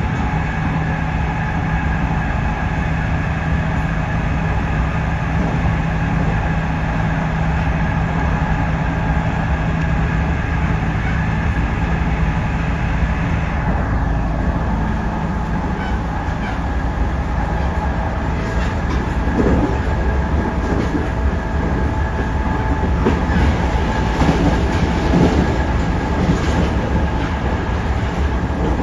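Running noise of a JR Central 311 series electric multiple unit heard from inside the car: a steady rumble of wheels on rail with a low hum that stops about halfway through. Later come scattered clacks of the wheels over rail joints.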